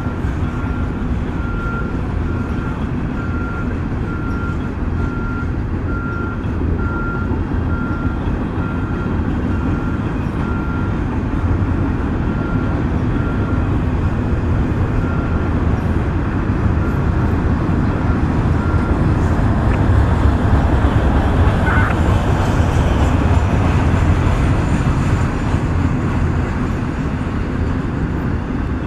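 Union Pacific freight train rolling past with a steady low rumble that grows louder past the middle. A repeated high beep, about two a second, sounds over it for the first two-thirds and then stops.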